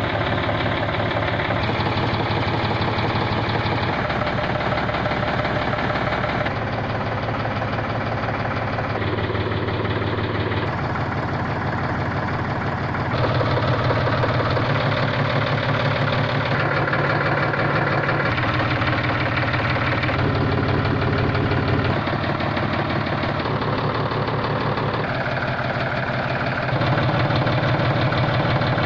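John Deere 5310 tractor's three-cylinder diesel engine running at a steady idle with an even pulsing clatter. Its tone and level shift abruptly every couple of seconds.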